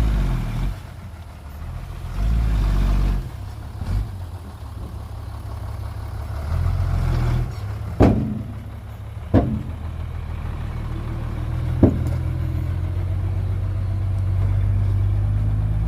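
Heavy diesel earthmoving machinery running steadily, with a louder surge about two seconds in. Three sharp metallic clanks come in the second half.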